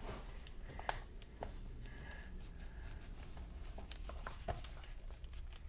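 Faint scratching of a colouring pencil or crayon on paper as the drawing is coloured in yellow, with a few light ticks scattered through.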